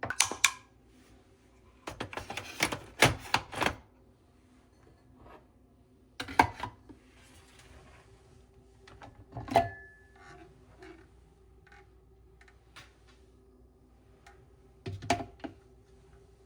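Clicks and knocks from handling a coffee machine and cups: a cluster of taps about two to four seconds in, then single knocks spaced several seconds apart. A faint steady hum runs underneath, and a short beep-like tone sounds near the middle.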